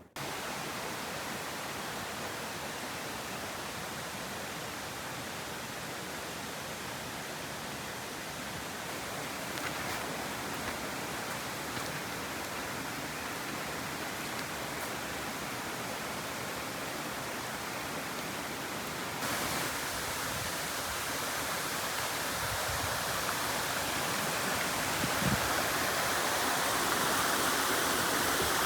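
Steady rushing noise of flowing water, like a stream, changing abruptly in tone about two-thirds of the way through.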